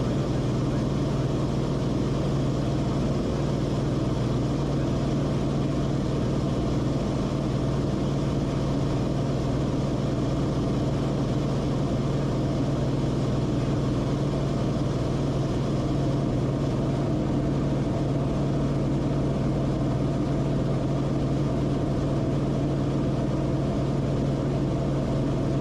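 Cessna Corvalis TTX's turbocharged six-cylinder engine running steadily, a constant low hum with no change in pitch or level.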